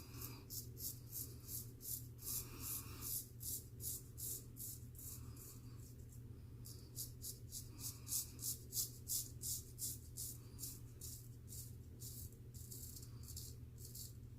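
Straight razor scraping through stubble in quick short strokes, about two to three a second, with a short pause about halfway, over a steady low hum.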